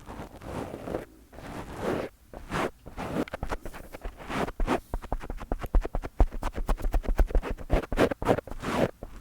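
Fingers rubbing and scratching directly on a microphone. The strokes are slow and separate at first, then about three seconds in they turn to quick scratching and tapping with low handling thumps.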